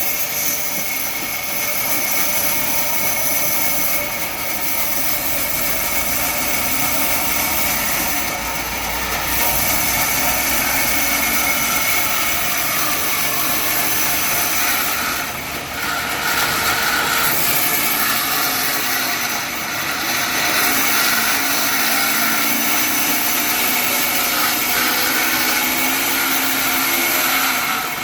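Sawmill machinery running steadily: a continuous mechanical whine and hiss with no break.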